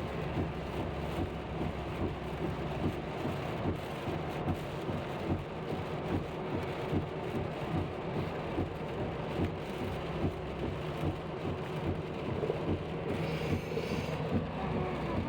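Steady road and tyre noise heard inside a moving car driving in the rain, with irregular light ticks throughout and a brief rise in hiss near the end.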